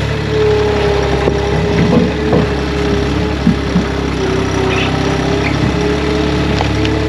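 Chainsaw engine running steadily at high speed, with a few short knocks or cracks in the wood between about two and four seconds in.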